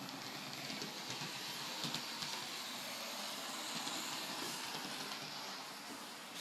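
A train running on its track: a steady hissing rattle with faint clicks that builds over the first couple of seconds and eases slightly near the end.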